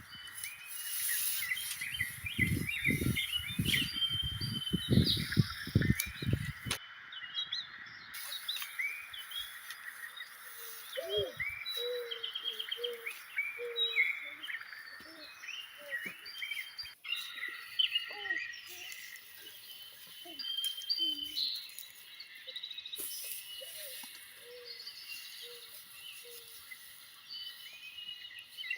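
Many birds chirping and calling, with short repeated lower calls mixed in. During the first seven seconds a run of low knocks and rustles from nearby work sits under the birdsong.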